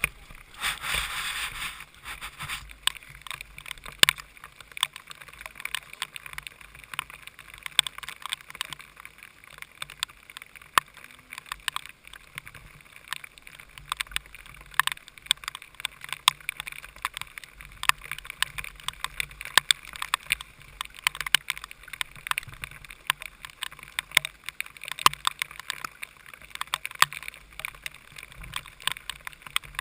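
Heavy rain and water spray striking an onboard camera's housing: an irregular crackle of sharp taps over a steady hiss, with a muffled low rumble underneath.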